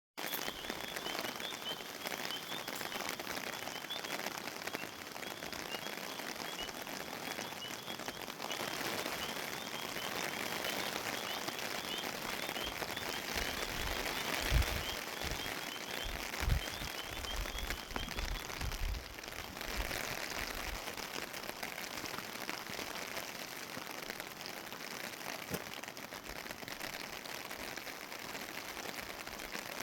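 Steady rain falling in a sun shower, an even hiss of drops throughout. Faint high chirps run through the first half, and a few brief low thumps come in the middle.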